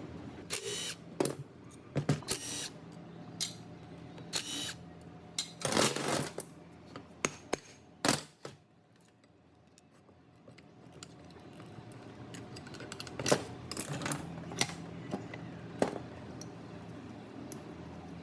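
Irregular metallic clinks and knocks of tools and metal parts being handled, with a quiet pause in the middle.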